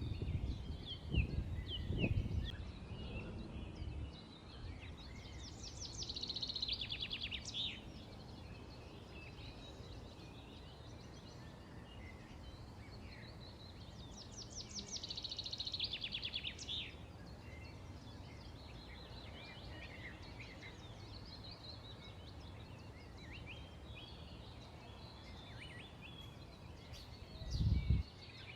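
Several small songbirds chirping, with two louder rapid rattling trills, about six and fifteen seconds in. Low rumbling thumps sound in the first couple of seconds and again near the end.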